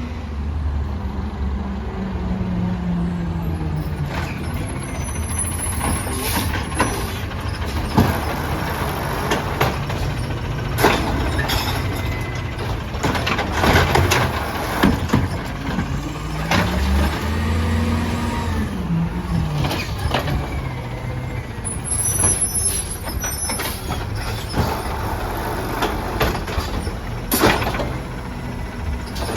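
Peterbilt 320 garbage truck running, its engine note dropping over the first few seconds and revving up and back down about halfway through, with repeated sharp bangs and clanks of the collection work.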